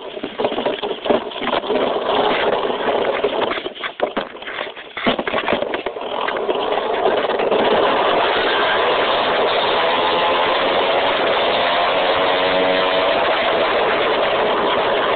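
Dirt bike engine running. The first several seconds are broken up by irregular knocks and rustling, then the engine sound settles into a steady run from about seven seconds in.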